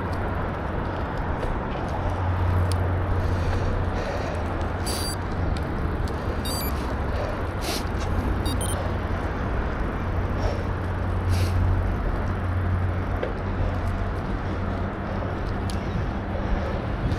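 Wind buffeting the microphone and tyre rumble from a bicycle being ridden, a steady rushing noise with a few short sharp clicks and ticks scattered through it.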